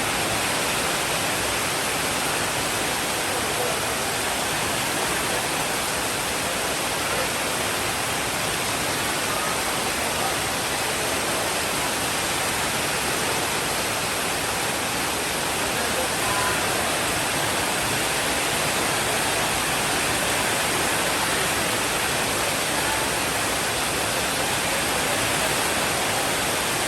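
Steady rainfall: a dense, even hiss that holds at one level throughout.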